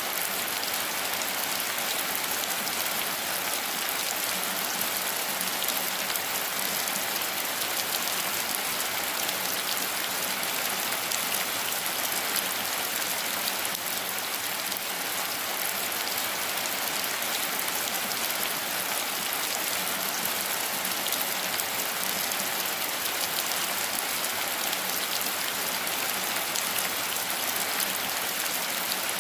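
Steady rain falling, a dense even hiss of many small drops that keeps up without change.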